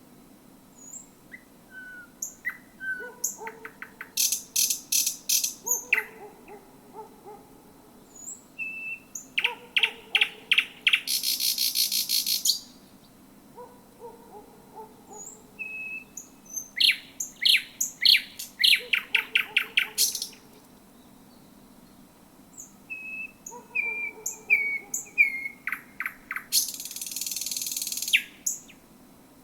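Thrush nightingale singing in four bouts separated by short pauses: runs of rapid repeated knocking notes, clear whistled notes, and two long dry rattles, the loudest of them about eleven seconds in and the other near the end.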